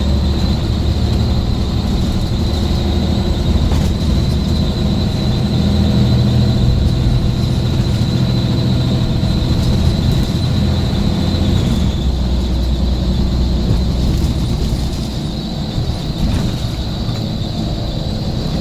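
Scania bus engine running under way: a steady low drone with a constant high-pitched whine over it, easing off about fifteen seconds in.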